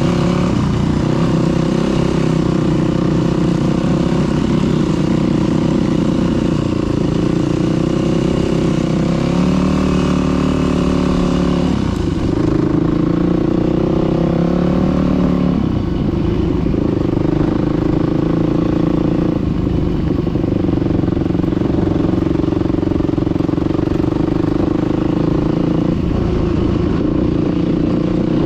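Dirt bike engine running under throttle, its pitch rising and falling several times as it is opened up and eased off.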